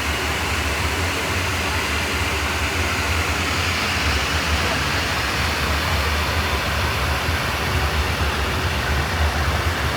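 Heavy truck's diesel engine running steadily, a low, even drone over a broad background hiss.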